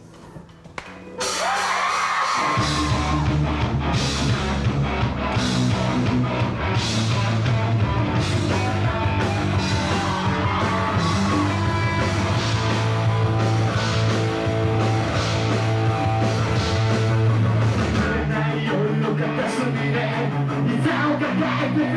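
Rock band playing the instrumental intro of a song. After about a second of quiet, the guitar comes in suddenly, and the full band with bass and drums joins about two and a half seconds in, playing loud and steady.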